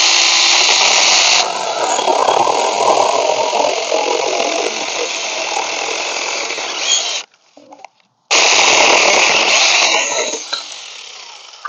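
Cordless 21V mini chainsaw running and cutting through a thick branch. It stops about seven seconds in and runs again a second later, tapering off near the end.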